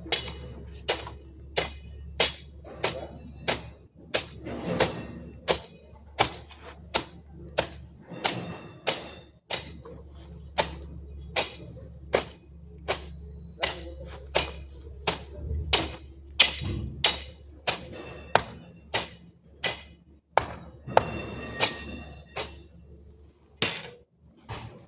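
A hand tool striking in a steady rhythm, about three sharp strikes every two seconds, as in chopping or cutting yard work.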